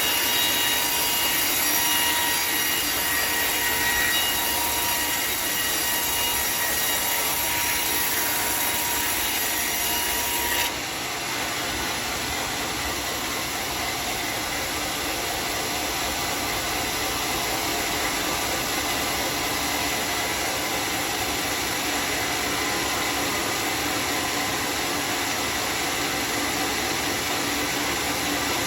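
Homemade sawmill's circular saw blade running through a teak log, a steady loud sawing noise with a high metallic whine. About eleven seconds in the sound changes abruptly, losing some of its hiss and becoming slightly quieter.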